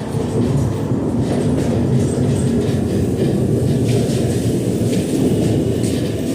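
Steady, loud low-pitched mechanical rumble of heavy machinery.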